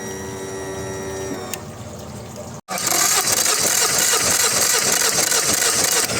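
Yamaha F50 fuel-injected outboard motor: a steady hum with several fixed tones that stops about a second and a half in. After a sudden break, the motor is heard running loudly.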